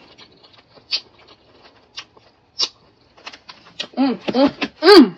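Crisp bites and chewing of fried food, sharp crunches and clicks at the mouth, then a few short hummed 'mm' sounds near the end, the last and loudest falling in pitch.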